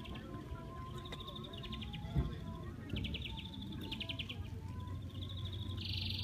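A bird repeating a fast, high trill in bursts of about a second, four times over, above a steady low wind rumble. There is a short thump about two seconds in.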